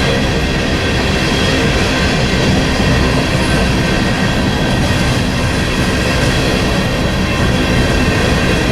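Freight train rolling past, a steady loud rumble of wheels on rail with faint thin squealing tones above it.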